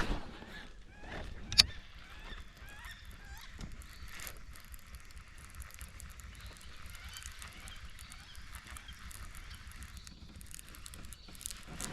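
Birds calling faintly and repeatedly in the background, with one sharp click about a second and a half in.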